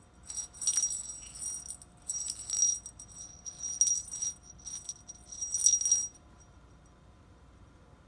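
Small metal bell jingling in irregular shaken bursts as a cat swats at it with its paw, stopping about six seconds in.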